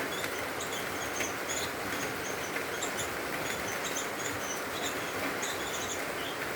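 Small birds chirping in short, high peeps, many times and irregularly, over a steady rushing background noise.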